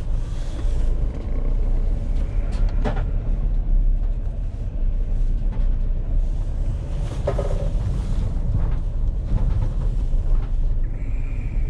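A van being driven: a steady low rumble of engine and road noise, with a few short knocks and rattles.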